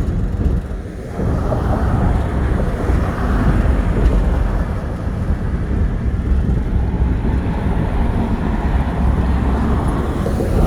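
Steady low rumble of a train rolling slowly, heard from an open caboose, with wind buffeting the microphone.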